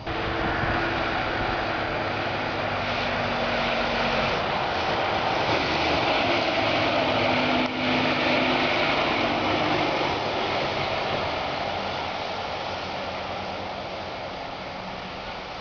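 Heavy truck driving past: a steady rush of engine and tyre noise that builds to its loudest around the middle and fades away toward the end.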